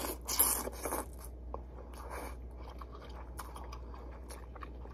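A person chewing a mouthful of ramen noodles close to the microphone, with wet mouth clicks and two short louder noisy bursts, one under a second in and one about two seconds in.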